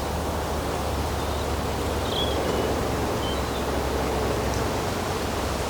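Steady outdoor woodland ambience: an even hiss with a low rumble, and a few faint short bird chirps about two to three and a half seconds in.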